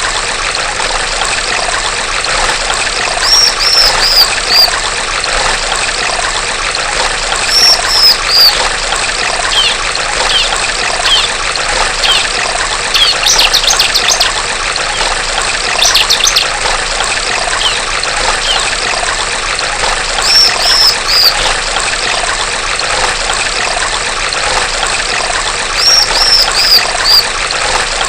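Steady trickling stream water with a female bar-winged prinia (ciblek) calling over it. Her calls come as runs of four or five high, falling notes, repeated four times, with a couple of quick rattling trills in the middle.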